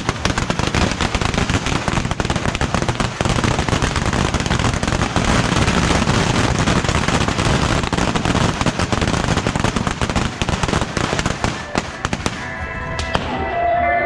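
A dense, continuous barrage of crackling bottle rockets and firecrackers going off from a beehive fireworks rack. The barrage thins out about twelve seconds in, and music comes through.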